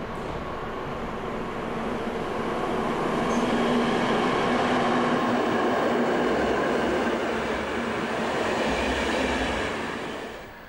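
Locomotive-hauled passenger train passing close by at speed: the locomotive and coaches rush and rumble on the rails, growing louder over the first few seconds with a steady hum in the middle, then fading near the end as the last coaches go by.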